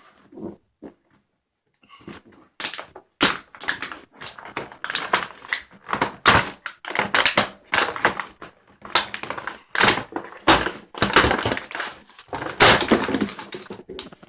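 Toy packaging being torn open and crumpled by hand: dense irregular crackling, rustling and sharp snaps, starting about two seconds in.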